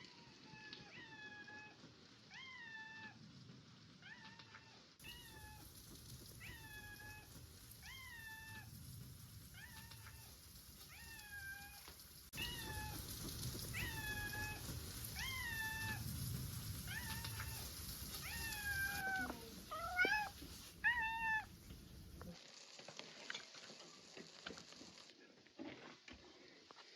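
A cat meowing over and over, short calls about one a second, with a few quicker rising meows near the end before the calls stop.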